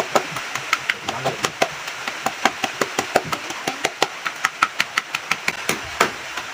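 A heavy pestle pounding pieces of fresh root in a mortar: quick, uneven strokes, several a second, each a sharp knock.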